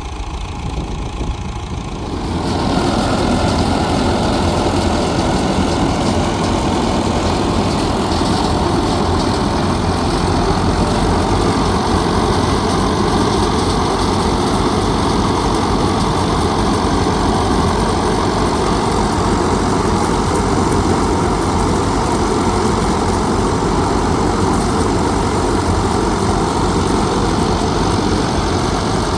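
An engine-driven machine running steadily and loudly, growing louder about two and a half seconds in and then holding an even drone.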